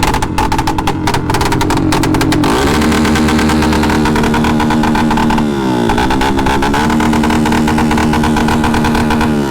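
Motorcycle engine running, rough and stuttering for the first couple of seconds, then its pitch climbs and holds steady. About six seconds in, the pitch drops briefly and climbs back.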